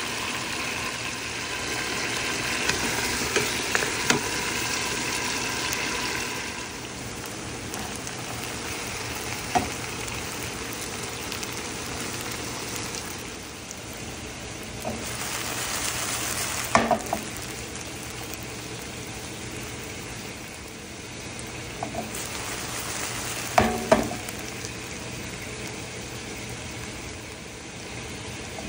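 Chopped okra, green chillies and onion sizzling as they fry in a pan, louder in the first few seconds and then softer. A few sharp knocks stand out against the steady sizzle.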